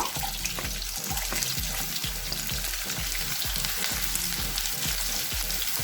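Chopped onions and green chillies sizzling steadily in hot oil in a pan, with some stirring.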